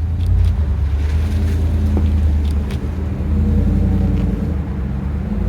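A motor vehicle's engine running, a steady low drone.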